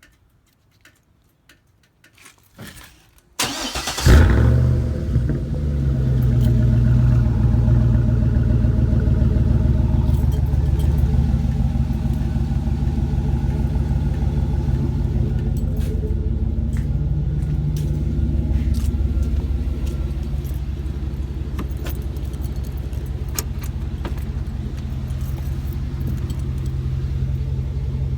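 2012 Chevy Silverado 1500's 6.2-litre V8 cranking and catching about three and a half seconds in, after a few faint clicks. It flares briefly at startup and then idles steadily through a straight-pipe exhaust with a Dynomax race bullet, the idle easing a little lower after about twenty seconds.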